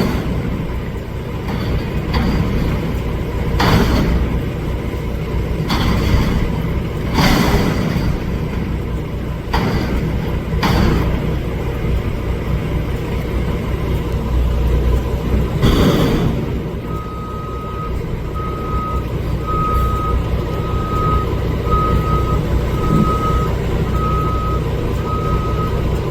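Garbage truck running steadily, with several sudden loud noises over the first two-thirds. About two-thirds of the way in, a reversing alarm starts beeping, roughly once a second.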